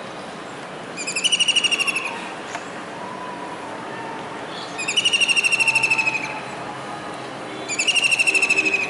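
A kingfisher calling: three loud, fast trills, each about a second long and about three seconds apart.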